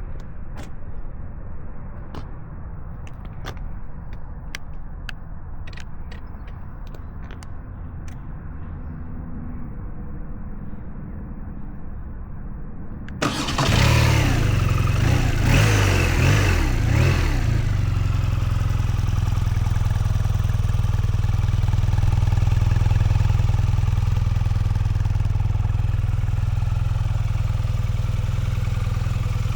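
BMW R12 NineT's boxer-twin engine starting about halfway in, blipped a few times and then settling into a steady idle. Before it starts there is a low rumble with scattered clicks.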